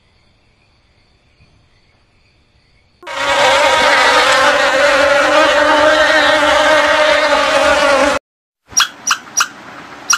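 Honeybee buzzing steadily and loudly for about five seconds, cutting off suddenly. A few short, sharp chirps follow near the end.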